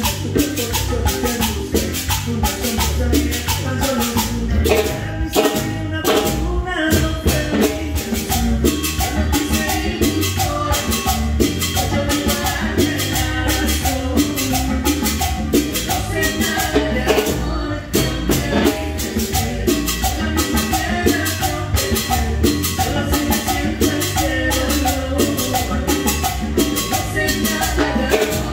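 Live band music: a Latin cumbia song with a steady, dense beat, shaker-type percussion and a heavy bass line, briefly breaking about eighteen seconds in.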